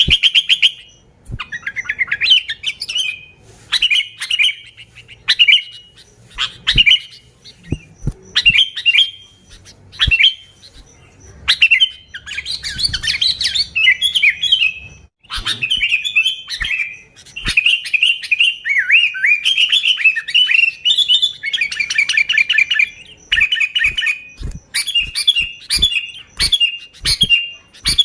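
Sooty-headed bulbul (kutilang) singing a rapid run of short, bubbly chirping phrases, one after another, that grow denser and more continuous toward the middle. Sharp clicks sound between the phrases.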